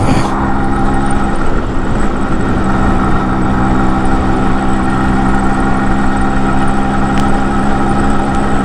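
Yamaha RX 100's two-stroke single-cylinder engine running at a steady, even speed while riding.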